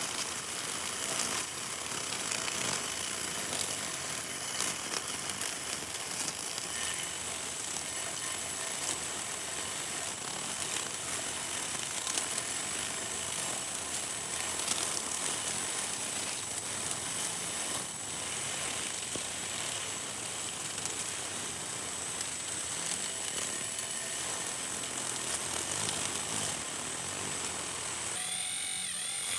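A small motor running steadily with a noisy, rattling whir. Near the end a high steady whine comes in.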